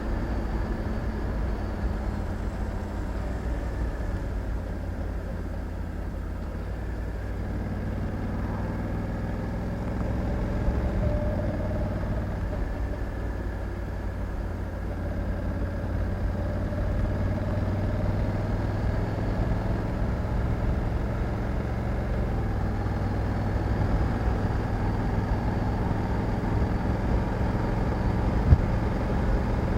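Honda Africa Twin 1100's parallel-twin engine running as the motorcycle is ridden, its note rising and falling a little with speed. A single sharp knock near the end.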